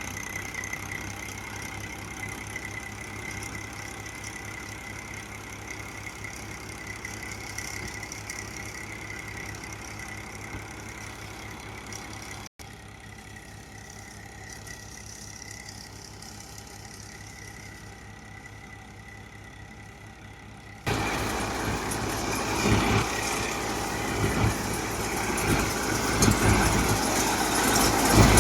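Powertrac tractor's diesel engine running steadily while it powers a multi-crop paddy thresher. The sound cuts off abruptly about midway and resumes a little quieter. About three quarters through it jumps to much louder, rougher machine noise with irregular thumps.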